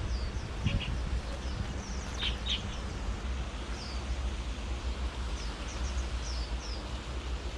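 Small birds chirping: many short, high chirps that slide down in pitch, scattered irregularly, with two louder ones about two and a half seconds in. A steady low rumble runs underneath.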